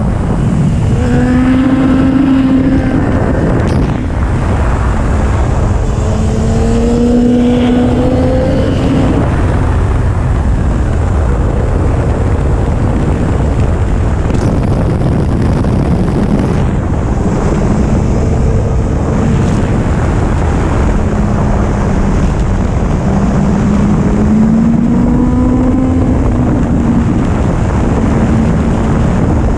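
2011 Kawasaki ZX-10R's inline-four engine riding along, its pitch climbing and dropping several times with throttle and gear changes, half buried under heavy wind buffeting on the microphone.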